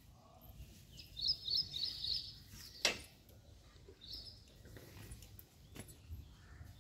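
Bird chirping: a quick run of high repeated notes about a second in and another short call about four seconds in, with a single sharp click near the three-second mark.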